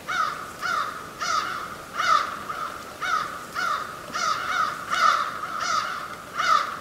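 A bird calling over and over, about a dozen short calls with roughly two every second, each call dropping slightly in pitch.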